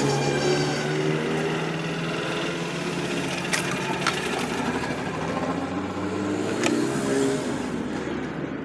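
An engine running steadily, its pitch briefly shifting a little before the end, with a few sharp clicks in between.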